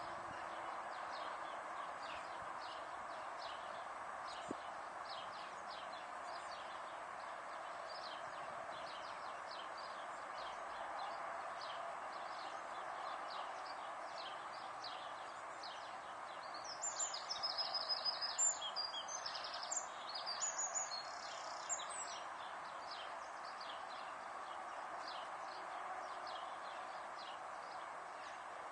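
Steady outdoor background hiss with small birds chirping over it. A louder bird song runs for about five seconds past the middle.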